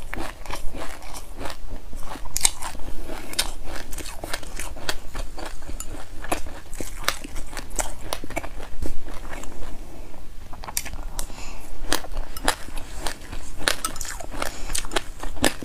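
Close-up chewing of a mouthful of raw white sesame seeds and passionfruit pulp with its seeds: a dense, irregular run of sharp crunches and crackles.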